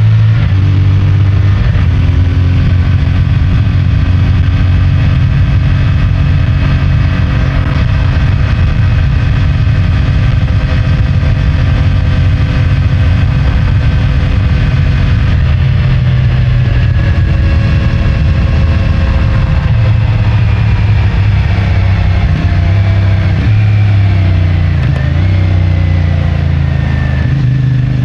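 CFMoto 450MT's parallel-twin engine running under riding load on its stock exhaust. The revs hold steady for a long stretch, change about halfway through, then drift down in pitch near the end as the revs drop.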